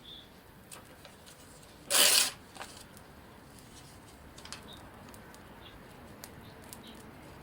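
A small fire of paper and twigs crackling faintly with scattered small clicks as it catches. One brief loud rustle comes about two seconds in.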